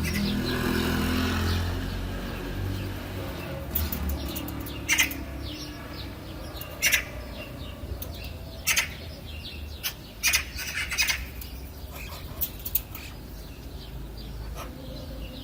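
Birds chirping: short, sharp, high calls at irregular intervals, about seven or eight loud ones, over a steady faint background, with a low rumble fading out in the first two seconds.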